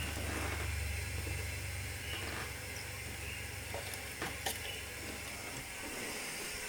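Steady low hiss and hum of room noise, with a few faint clicks around the middle.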